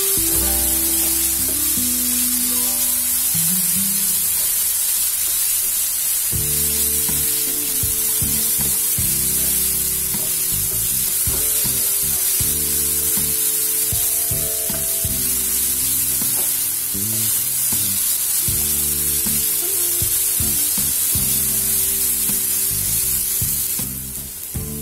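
Chopped onions and ginger-garlic paste sizzling in hot oil in a nonstick frying pan as they are stirred with a spatula, sautéing until the raw smell of the paste goes. Background music with held low notes plays underneath.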